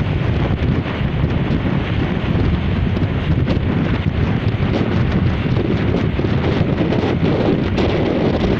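Strong wind buffeting the microphone, a loud, steady low rumble that swells and dips, over the wash of waves on the shore.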